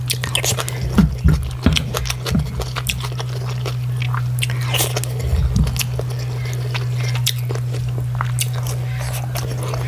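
Mouth sounds of eating rice and tomato stew: chewing with many short wet smacks and clicks. A steady low hum runs underneath.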